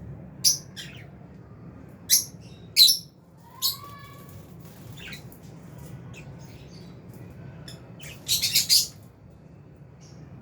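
Lovebirds giving sharp, high chirps: single chirps scattered through the first few seconds, then a rapid cluster of chirps near the end, over a faint steady low hum.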